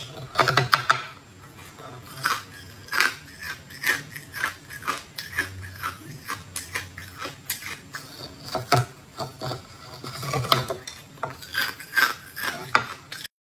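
Biting into and chewing a molded green jelly rabbit: a fast run of sharp clicks and crackles from the mouth, several a second, which cuts off abruptly near the end.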